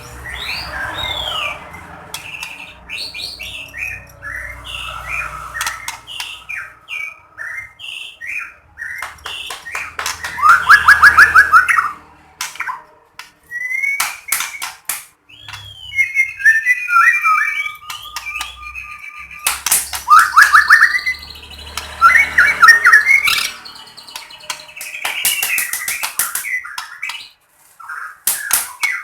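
White-rumped shama (murai batu) singing a long, varied song of whistled notes and glides, broken by fast rattling trills and sharp clicking calls. The song is used to provoke other caged shamas into singing.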